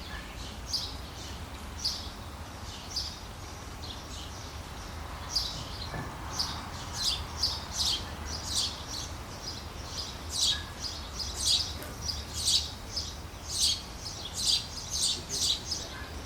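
Small birds chirping: short, high chirps, a few at first, then coming thickly about two a second from about a third of the way in. A low, steady rumble sits underneath.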